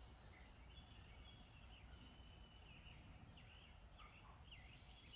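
Near silence with faint birdsong: scattered short chirps and gliding whistles, busier about four seconds in, over a faint low steady rumble.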